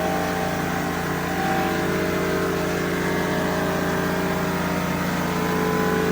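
Motor of a floor-washing machine running steadily: a constant hum made of several held tones.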